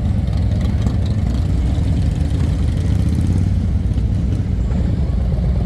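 A motorcycle engine idling steadily, a low even rumble.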